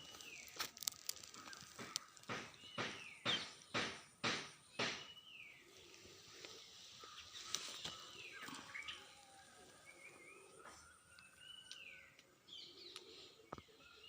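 Small birds calling outdoors, short chirps that slide downward in pitch and repeat every couple of seconds. A run of sharp clicks and rustles sounds through the first five seconds or so.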